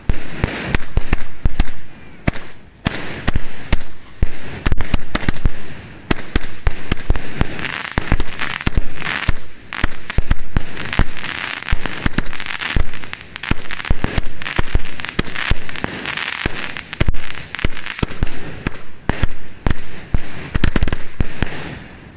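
A 59-shot firework cake firing in quick succession: a long run of sharp shots and bursts, with a crackling hiss from the stars between them.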